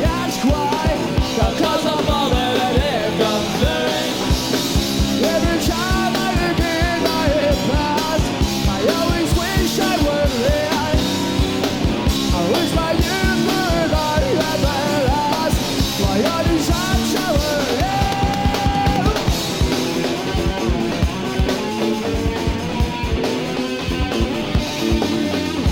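Live punk rock band playing with drums, guitar and sung vocals.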